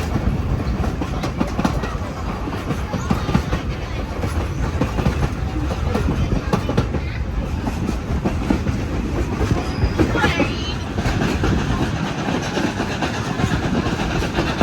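Train wheels rumbling and clicking over the rail joints, heard while riding in a moving heritage railway carriage.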